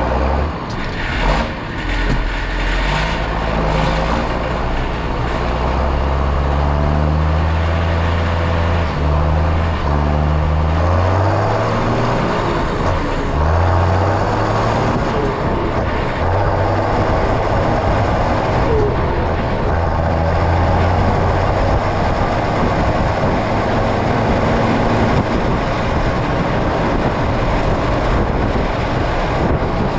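Diesel engine of a John Deere tractor running, its pitch stepping up and down several times in the first half, then holding steadier.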